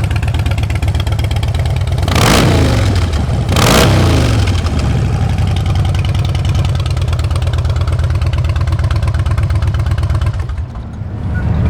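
2008 Harley-Davidson Dyna Fat Bob's Twin Cam 96 V-twin idling through Vance & Hines aftermarket exhaust, with two quick throttle blips about two and three and a half seconds in that rev up and drop back to idle.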